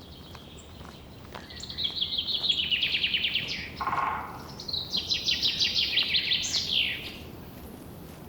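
A songbird singing two long, rapid trills of quickly repeated high notes, each sliding downward, the second ending in a quick upward sweep; a short lower buzzy note falls between them.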